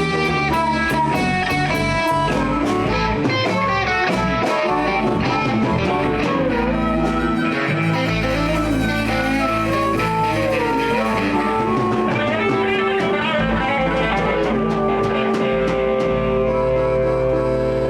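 Live blues band playing an instrumental passage: electric guitar lead over bass and drums, no singing.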